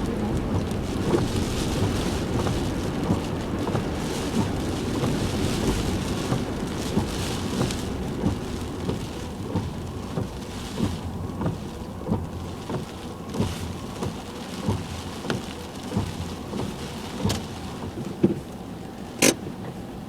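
Heavy typhoon rain and road spray on a moving car, heard from inside the cabin, slowly easing off. In the second half there are regular soft knocks about two-thirds of a second apart, and one sharp click near the end.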